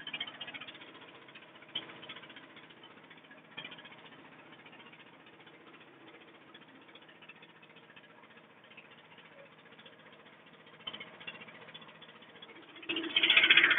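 Boat engine running steadily, with a few short knocks and a louder rattle near the end.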